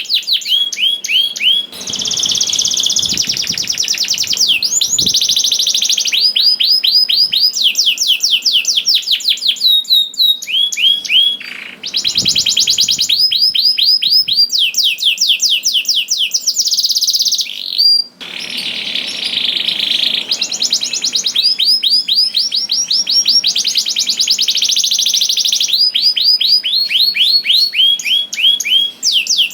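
Domestic canary singing a long, vigorous song of rapid high-pitched trills, phrase after phrase, with only brief pauses between them.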